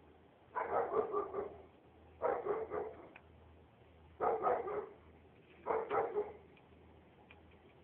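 A dog barking in four short bouts, each about two seconds apart.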